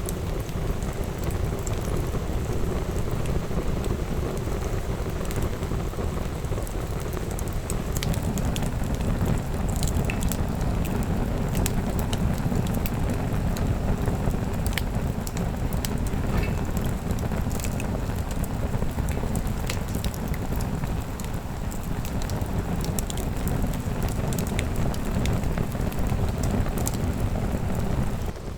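Wood bonfire burning: a steady low rush of flames with many scattered sharp crackles and pops from the burning wood.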